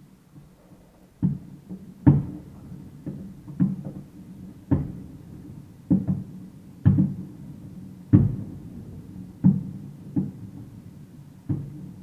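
Fireworks shells bursting at a distance: a string of about a dozen deep, echoing booms, roughly one a second.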